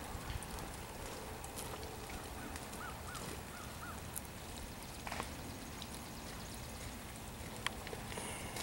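Outdoor ambience: a steady faint hiss with scattered light clicks, and a small bird chirping four quick rising-and-falling notes about three seconds in.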